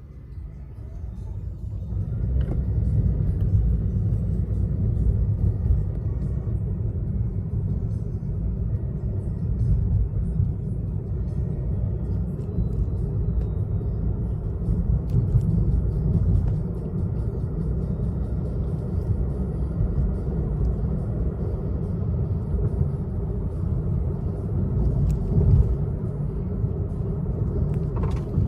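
Steady low rumble of a car driving, heard from inside the moving car. It builds up over the first couple of seconds and then holds even.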